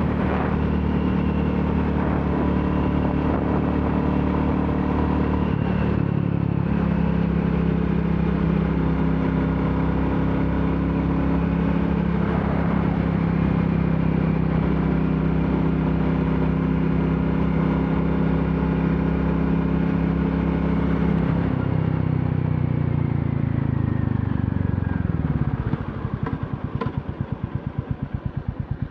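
Royal Enfield Classic 350's single-cylinder engine running steadily under way, then slowing down with its pitch falling about 21 seconds in, and settling to an idle with a slow, even beat near the end.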